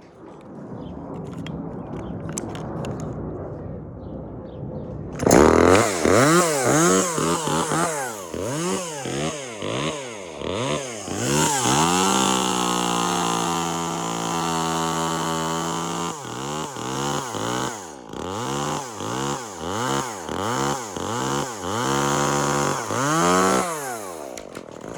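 Chainsaw cutting through a dead birch stem: after a few seconds of quieter running it is throttled up and down over and over, held at a steady high pitch for about four seconds midway, and stops just before the end. The cut is a back cut with no face cut, dropping a top section.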